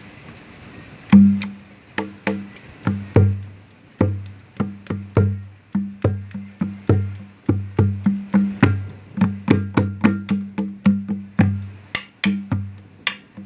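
Goat-skin conga drum played by hand in a steady rhythm of ringing low tones, about three strokes a second, starting about a second in.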